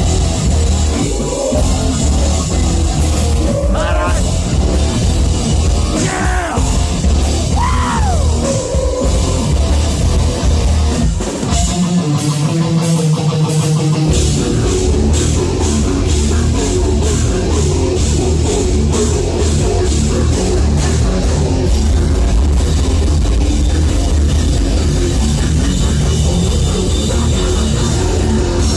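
Live heavy metal band playing at full volume: distorted guitars, bass and drum kit. The low end drops out for about two seconds near the middle, then the full band comes back in with dense, driving drums.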